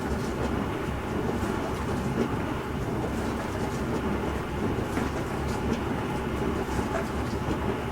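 Bosch Serie 4 SMS46MW05G dishwasher running a wash cycle: a steady low churn of pumped and sprayed water, with faint light ticks through it.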